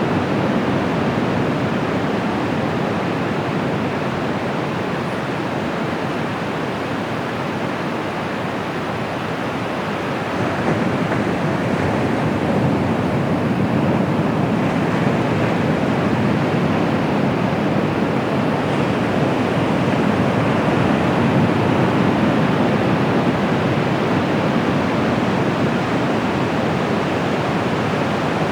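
Ocean surf breaking on a beach: a continuous rushing wash of waves that swells louder about ten seconds in and stays up.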